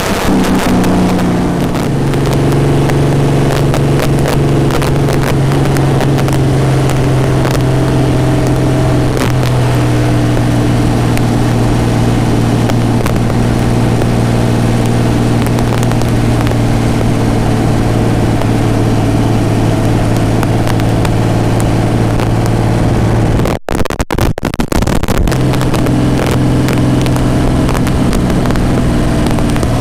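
A V12 marine racing engine in a Shelby AC Cobra running loud and steady. Its pitch drops in a step about two seconds in and again about nine seconds in, then holds. The sound cuts out briefly about three-quarters of the way through and comes back.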